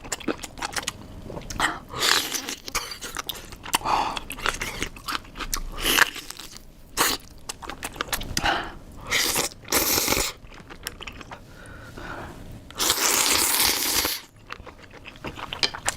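Close-miked eating: crisp bites and crunching of crunchy food, with chewing between the bites and two longer, denser crunches about nine and thirteen seconds in.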